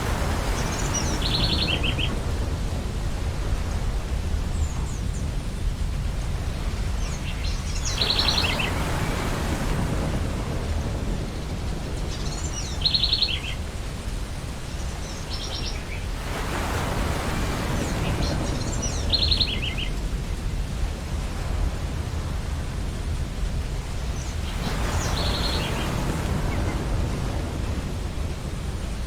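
Ocean waves breaking and washing up the beach about every eight seconds over a steady low rumble of surf. Gulls call between the waves, five short runs of quick repeated notes.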